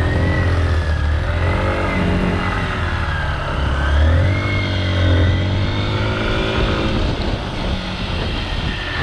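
Motorcycle engine running under way, its note rising and falling several times as the throttle opens and closes.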